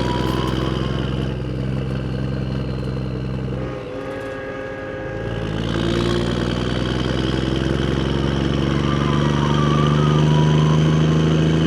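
A small motor running steadily; it drops in pitch and level about four seconds in, then picks back up about two seconds later and runs on.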